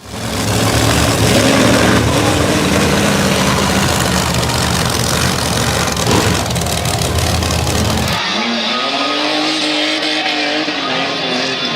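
Monster truck engines running loud and revving as a deep, heavy rumble. About eight seconds in the sound abruptly turns thinner, with a tone rising and falling in slow swells.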